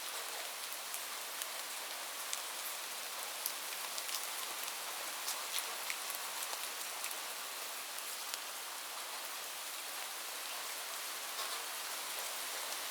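Steady rain hiss with many scattered sharp drop ticks; no thunder.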